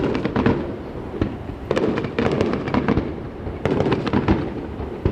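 Aerial fireworks display: many sharp bangs and crackles in quick clusters over a continuous rumble of bursts.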